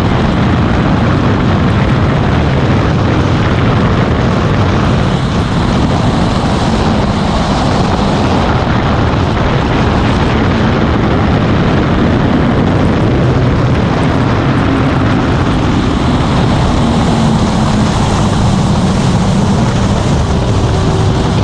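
Motorcycle running at road speed, its engine note drifting up and down under a steady, loud rush of noise.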